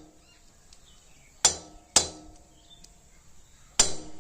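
A hammer striking a thin metal punch to drive the brake-pad retaining pin out of a Royal Enfield Meteor 350's rear brake caliper. There are three sharp metallic taps, each with a brief ring: two about half a second apart and a third near the end.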